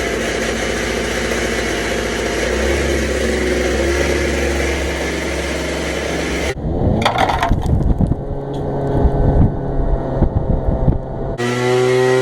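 A blower running at full power, blowing out a clogged dryer vent duct. After about six and a half seconds the steady blowing noise cuts off abruptly, giving way to knocking and rattling, and near the end a motor tone rises briefly.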